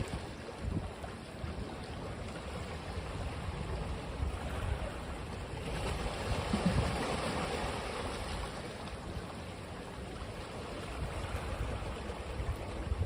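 Ocean waves washing onto a beach, a steady wash of surf that swells once around the middle, with low rumbling gusts of wind on the microphone.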